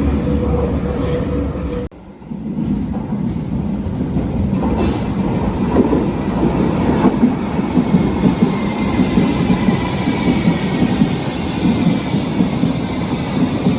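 Berlin U-Bahn train running on the track, a steady rumble with repeated wheel knocks, and a faint high wheel squeal near the end. The sound drops out abruptly for a moment about two seconds in, then returns.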